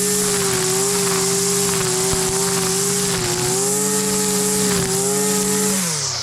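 Husqvarna 326 LD string trimmer's small two-stroke engine running at high speed. Its pitch dips briefly about three seconds in and recovers, then falls away near the end.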